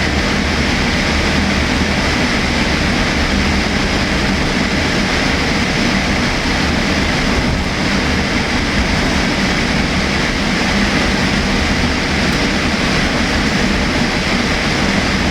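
Steady jet engine and airflow noise heard inside the cabin of a Boeing 787-8 airliner, an even rush with a low drone underneath.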